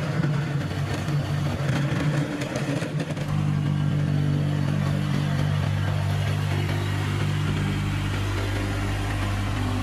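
Kubota tractor's diesel engine running, its note wavering for the first three seconds and then holding a steady pitch.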